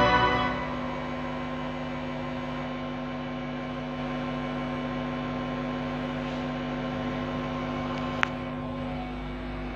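Backing music ends within the first half-second, leaving a steady electrical hum of several even tones, likely from the sound system. A single sharp click comes about eight seconds in.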